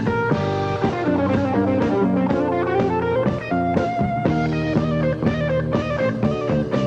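A band playing, led by electric guitar over bass and drums.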